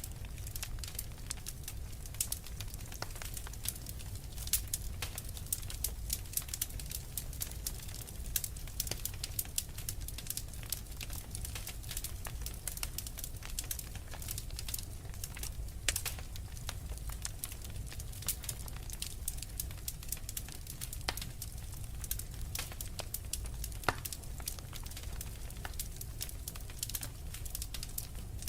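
Fire crackling: a dense, irregular run of small pops and snaps over a steady low rumble.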